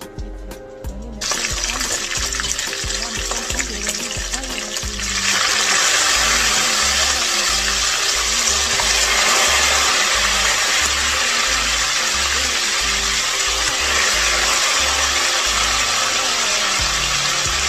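Chicken gizzards sizzling in hot oil in a frying pan. The sizzle starts about a second in and gets louder about five seconds in. Background music with a steady bass beat plays under it.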